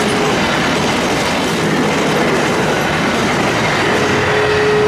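Passenger train coaches passing close by at speed: a loud, steady rush of wheels on the rails. A thin steady tone comes in near the end.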